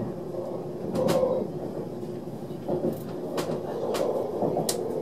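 Running noise inside an ÖBB Railjet passenger coach on the move: a steady rumble of the wheels on the rails, broken by five irregular sharp clicks and knocks.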